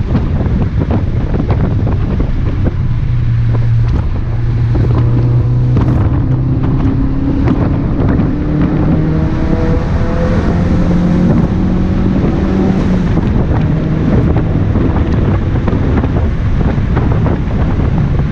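2017 Ford Focus RS's turbocharged 2.3-litre four-cylinder, fitted with an aftermarket intake and exhaust, pulling hard on track. The engine note climbs in pitch in steps through the gears, over steady road and wind noise.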